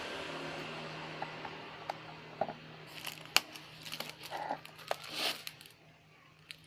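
Plastic packaging crinkling, with sharp clicks and short rustles, as a boxed electric shaver is handled. A faint steady hum dies away over the first few seconds.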